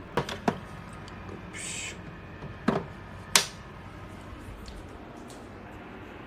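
A few sharp clicks and knocks, the loudest about three and a half seconds in, and a short hiss, over a steady hum.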